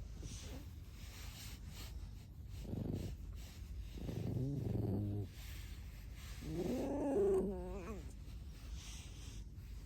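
Pet fox giving three squeaky, creaking calls: a short one about three seconds in, a longer one about a second later, and a loudest one near seven seconds that wavers quickly up and down in pitch at its end.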